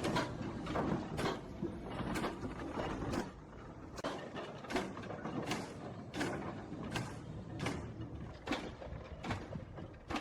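Richard Trevithick's early steam locomotive running, its exhaust chuffing in a slow, even beat of sharp strokes, a little more than one a second, over a low rumble.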